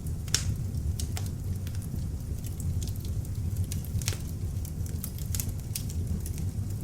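Beech logs burning in an open fireplace: a steady low rumble of flame with irregular sharp crackles and pops, the loudest just after the start and about four seconds in.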